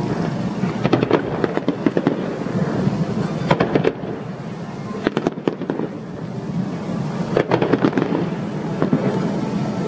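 Fireworks going off in a dense barrage: rapid crackling pops and bangs with no let-up, thickest in several bursts.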